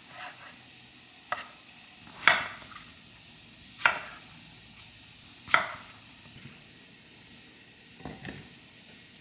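Kitchen knife chopping on a cutting board: about five slow, separate strokes spaced a second or two apart.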